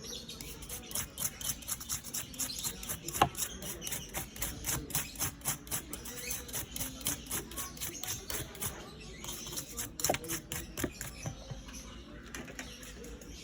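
A rapid run of light clicks, about five a second, with one sharper click about three seconds in; they thin out to a few scattered clicks after about nine seconds.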